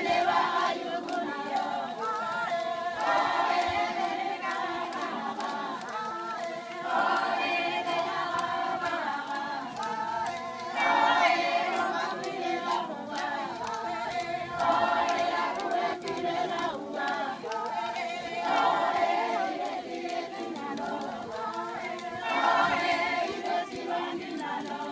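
A group of voices singing together a cappella, without instruments, in phrases that swell and fade every three to four seconds.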